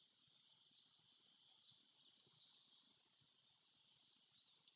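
Faint forest ambience: distant birdsong, with a couple of short, high, thin bird whistles, one near the start and one a little past the middle.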